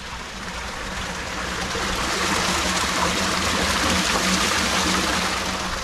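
Running water rushing, as from a stream or spring spout. It swells louder toward the middle and eases off near the end, over a faint steady low hum.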